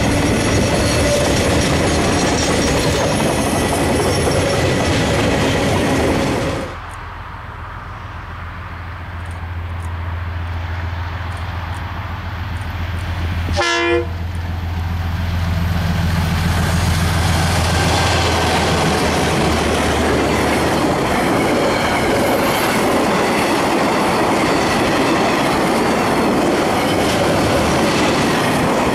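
Freight wagons rolling past with steady wheel-on-rail noise. The sound cuts sharply to the low, steady drone of an approaching diesel locomotive, growing louder. About 14 s in there is a very brief horn-like note, and then the train's wagons rumble past with wheel clatter.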